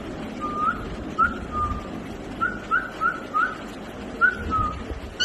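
A series of short whistled notes, about ten in all, coming singly or in quick runs of two to four. Each is a brief upward flick, some followed by a short falling note.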